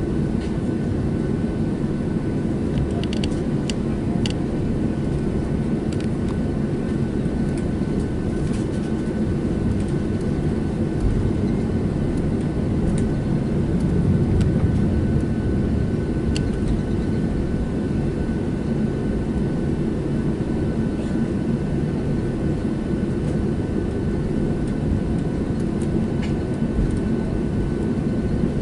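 Steady low rumble of a Boeing 737-700 with its engines running, heard from inside the passenger cabin, with a faint steady whine above it and a few light clicks.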